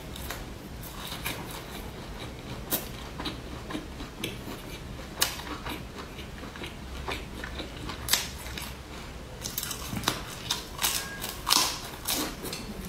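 Close-miked chewing of fried sausage: soft, irregular mouth clicks and wet smacks, with a few louder smacks in the second half.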